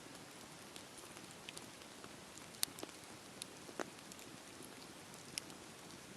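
Campfire burning with a soft steady hiss and irregular sharp crackles and pops of the burning wood, a few louder snaps about two and a half, four and five and a half seconds in.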